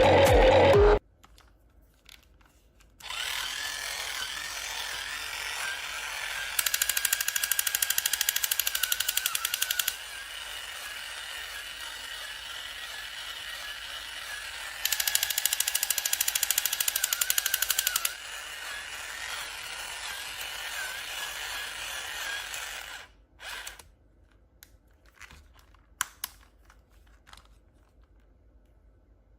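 A small motor whirring steadily, with two louder stretches of rapid rattling a few seconds each, stopping abruptly; a few faint clicks follow.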